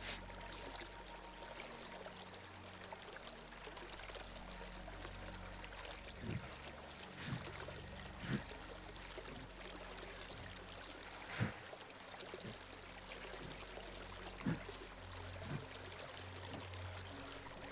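Small stream flowing, a steady gentle rush of water, with a few brief faint sounds over it.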